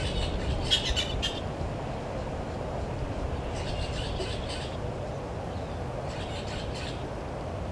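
Wild birds chirping in three short bursts of quick, high calls spaced a few seconds apart, over a steady low rumble of background noise.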